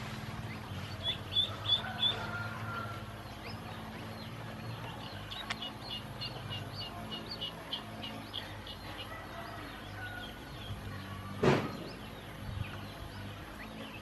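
Ducklings peeping: runs of short, quick, high peeps, a few around a second in and a longer string in the middle. One sharp knock about three-quarters of the way through is the loudest sound, over a steady low hum.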